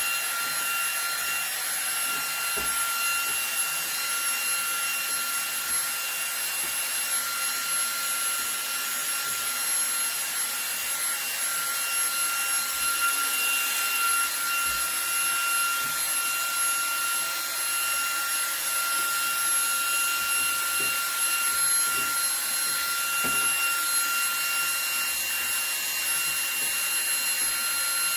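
Cordless handheld vacuum (eufy HomeVac H30 Mate) running steadily on max power: a high motor whine over a rush of air, with a few light knocks as it works against a dusty vent.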